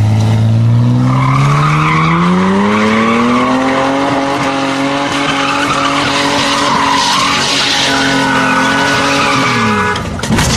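A V6 car doing a burnout: the engine revs up over the first few seconds and is held high while the spinning tyres squeal, then the revs drop near the end.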